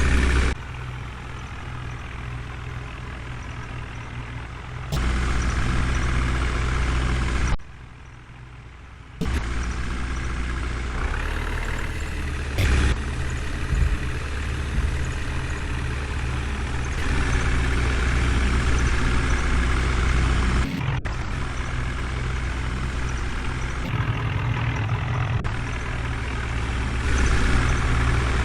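Heavy diesel engine running steadily, with several abrupt jumps in loudness.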